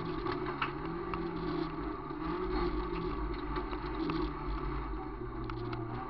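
VW Gol rally car's engine running hard on a gravel stage, heard from inside the cabin, with scattered sharp clicks and rattles from the loose road. The engine note drops lower near the end as the car comes off the throttle.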